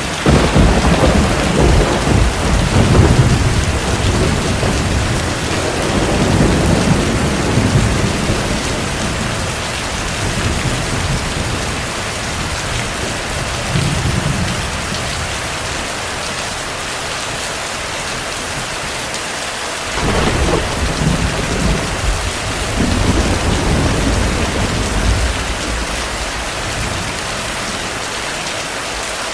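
Steady heavy rain with rolling thunder: a long low rumble begins at the start and dies away over several seconds, a shorter one follows midway, and another swells up about two-thirds of the way in.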